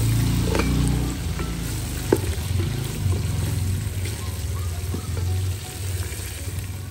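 Potatoes and sliced red onions frying in oil in an aluminium pot, sizzling steadily, while a wooden spoon stirs and scrapes through them. There is one sharp knock about two seconds in.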